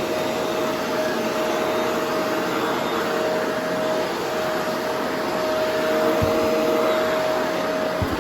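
Vacuum cleaner running steadily, a constant motor whine over the airflow noise, with two short low thuds about six and eight seconds in.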